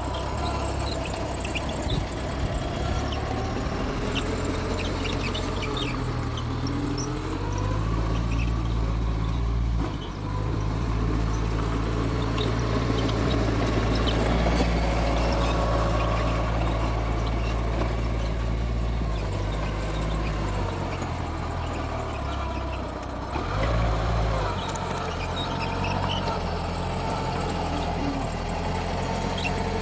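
Mitsubishi G2 bulldozer's diesel engine working as the machine pushes soil. The engine note rises and falls with the load, louder from about a third of the way in, with brief dips near the middle and later on.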